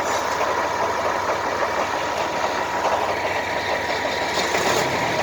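A drilling rig's engine runs steadily, with a steady whine over it and a second, higher whine joining about three seconds in.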